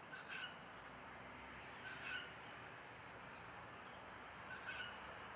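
A bird giving a short call three times, roughly two seconds apart, over a faint steady background hiss.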